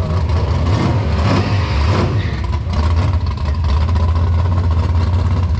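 A car engine running with a steady low rumble, swelling briefly about a second in.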